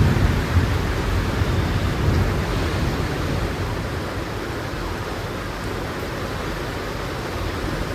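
Heavy rain pouring down in a steady hiss, with a low rumble of thunder dying away in the first second.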